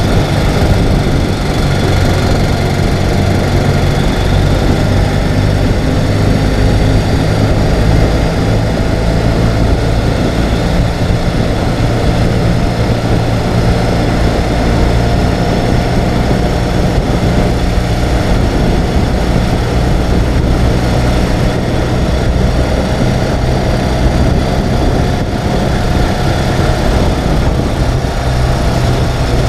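Ural sidecar motorcycle's flat-twin engine running steadily while under way, its low engine note mixed with wind and road noise.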